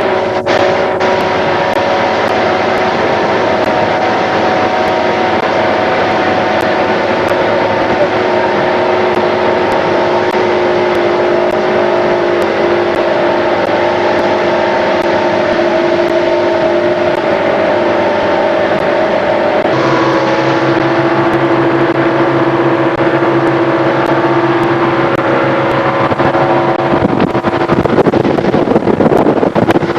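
Boat engine running steadily under way over a constant rushing hiss. About two-thirds of the way through, the engine note drops a step lower, and near the end the rushing noise grows louder.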